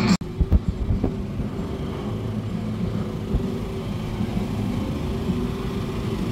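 Background music cuts off just after the start, followed by a few low bumps and then a vehicle engine running steadily at low revs.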